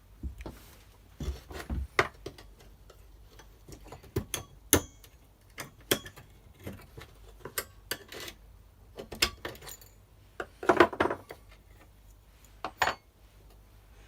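Small metal parts of a strimmer clutch being handled and worked on: scattered sharp metallic clicks and clinks, with a louder cluster of knocks about eleven seconds in.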